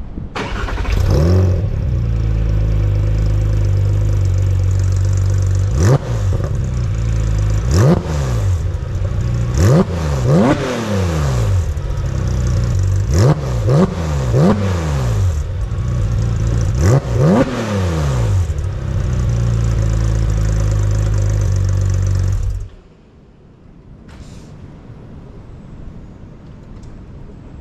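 2007 Porsche 997 GT3's 3.6-litre flat-six on a cold start, breathing through an aftermarket racing exhaust. It fires and idles steadily, is blipped about ten times in quick sharp revs, then is switched off about 23 seconds in.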